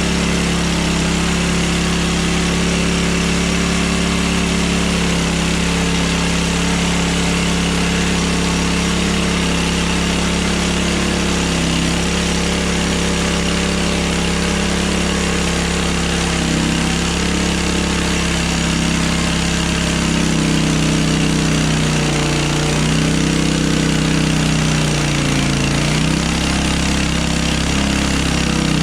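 Hudson Hunter portable band sawmill's engine running steadily, its pitch sagging and recovering several times near the end.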